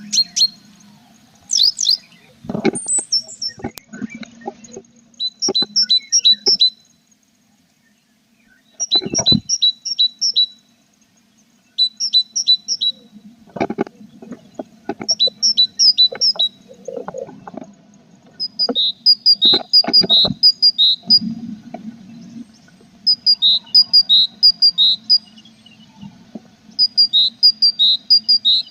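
Tit nestlings in a nest box giving repeated bursts of rapid, high chirps, each burst about a second long. Between them come knocks and scrapes of birds moving against the box, over a steady low hum.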